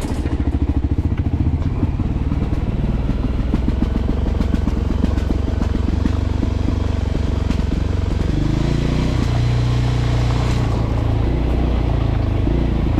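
Voge 300 Rally's single-cylinder engine running steadily while riding, with the engine note shifting about eight seconds in.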